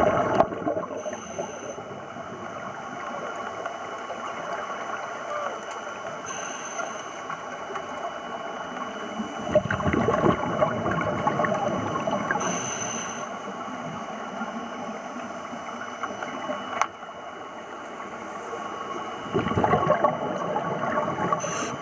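Scuba diver breathing underwater: short hissing breaths through the regulator, and a gurgling rush of exhaled bubbles about ten seconds in and again near the end, over a steady underwater hiss.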